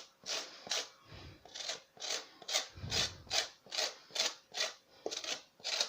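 Lemon being grated against a metal grater, a quick, even series of rasping strokes, about two to three a second. This is the peel being zested over a frosted cake.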